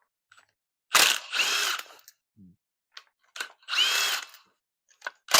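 Power drill run in three short bursts, each about a second long, with a whine that rises and falls as it spins up and stops.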